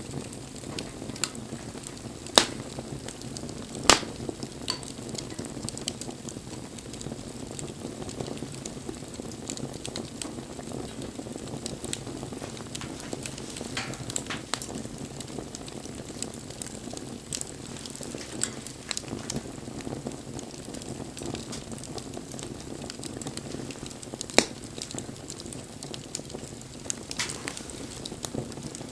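Wood bonfire burning: a steady low rush of flames with scattered crackles and a few sharp pops, the loudest about two and a half and four seconds in and again near the end.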